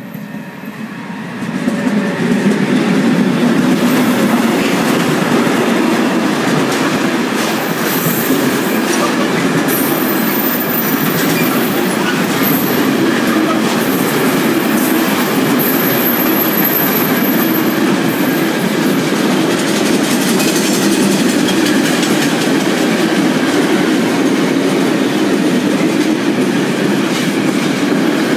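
Freight train passing close by, led by two ÖBB electric locomotives that the filmer takes for a class 1216 and a class 1144, followed by covered sliding-wall wagons: a steady loud rumble and clatter of wheels on the rails. It grows loud about two seconds in as the locomotives come level, then holds steady as the wagons roll past.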